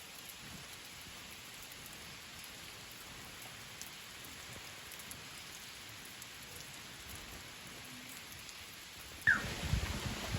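Steady rain falling, an even hiss of drops. Near the end the sound jumps suddenly louder, with a brief high chirp and a few knocks.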